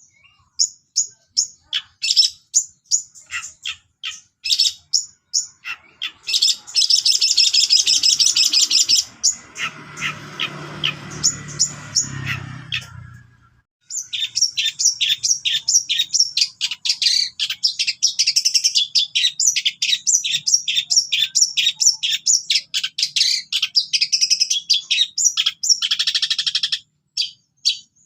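Long-tailed shrike (cendet) singing in rapid-fire bursts of sharp, high chattering notes, a dense run in the first third and a long fast run after a short pause past the middle. A brief low rumble sounds under the song around the middle.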